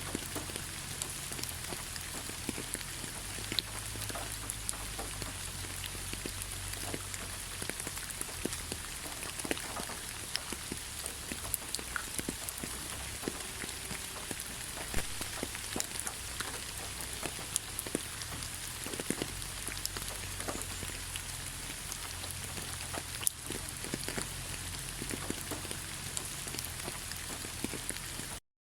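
Steady rain falling in a pine forest: an even hiss with many separate drops pattering close by. It cuts out for a moment near the end.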